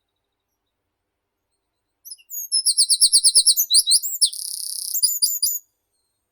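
A songbird singing one high-pitched song phrase about two seconds in: a few lead-in notes, a fast trill of repeated sliding notes, a buzzy held stretch, and a few quick closing notes.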